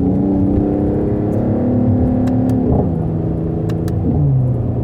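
Mercedes-AMG GT 43 4-Door's turbocharged inline-six accelerating, its pitch climbing steadily and then dropping at two upshifts, the first about halfway through and the second near the end.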